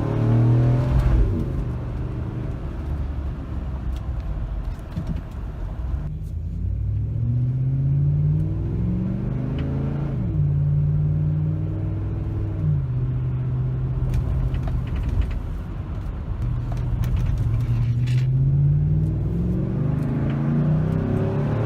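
Exhaust of a 2008 Chevy Tahoe's 5.3 L Vortec V8 through a Borla Pro XS muffler. The engine is revving: its pitch climbs gradually and then drops sharply, about a second in, around ten seconds in, and again near thirteen seconds, before climbing again near the end.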